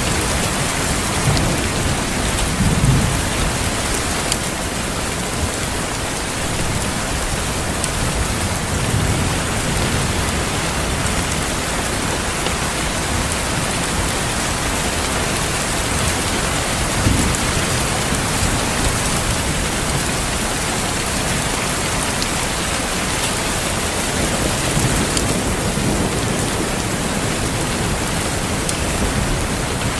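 Steady heavy rainfall with low rolls of thunder swelling under it, a little louder about 3 seconds in and again a little past halfway.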